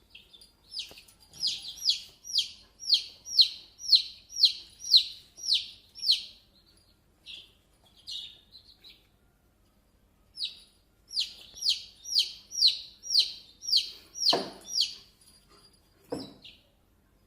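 A bird calling over and over, short high chirps that fall in pitch, about two a second in two long runs with a pause between them. Two sharp knocks come near the end.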